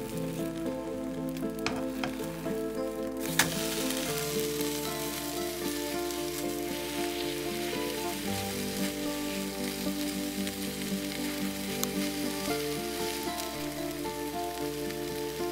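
Egg and bread frying in a nonstick pan, a steady sizzle that grows much louder about three seconds in, with one sharp click as it does. Soft background music plays under it.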